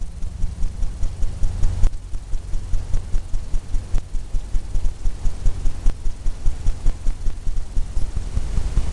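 Fan brush loaded with oil paint tapping and scrubbing against a stretched canvas, in a quick, even rhythm of about three to four strokes a second, with dull low thumps from the canvas.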